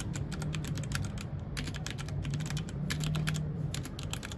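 Fast typing on a mechanical keyboard: a rapid run of crisp key clicks, with brief pauses twice.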